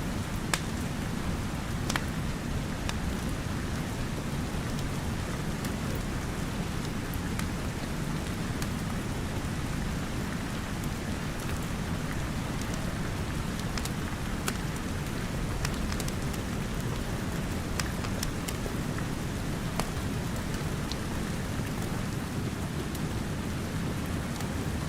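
Steady rain with a few scattered sharp crackles of a wood fire in a fireplace.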